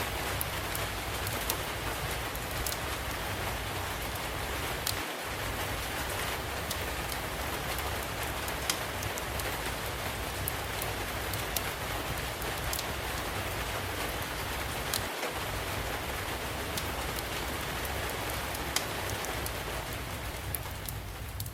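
Steady rain falling, with scattered sharp pops and crackles from a wood fire.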